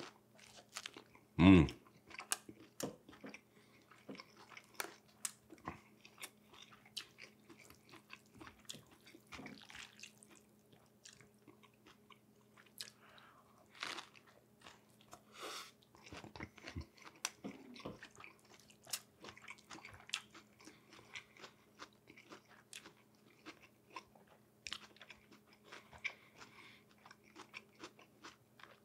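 Close-up chewing and biting of a spring roll, with scattered small crunches and wet mouth clicks throughout. There is a short, loud burst about a second and a half in.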